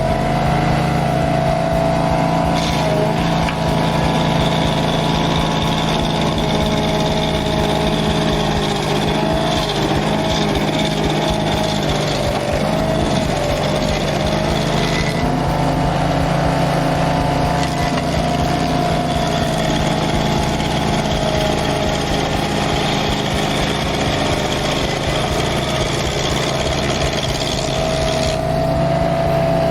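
Barreto 30SG stump grinder's gas engine running at steady high speed while its cutter wheel grinds a stump. The engine pitch sags slightly now and then under load.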